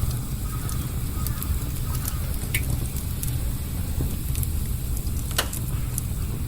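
Wood campfire crackling, with scattered sharp pops, one louder pop about five seconds in, over a steady low rumble.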